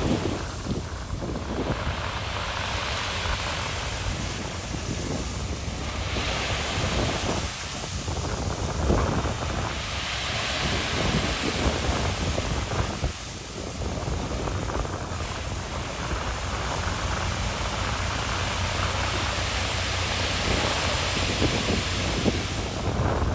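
Wind buffeting the microphone in gusts, over the steady low rumble of heavy earthmoving machinery engines.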